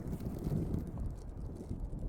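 Blizzard wind gusting, a low, fluctuating rumble buffeting the microphone.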